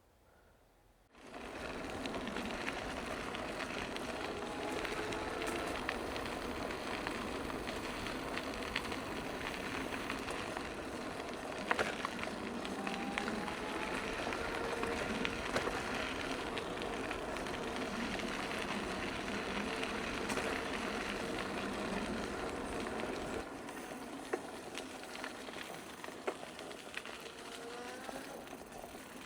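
Bicycle being ridden along a trail: steady rolling noise of tyres and drivetrain with wind on the microphone, starting suddenly about a second in and getting quieter a little before the end, with a few light clicks.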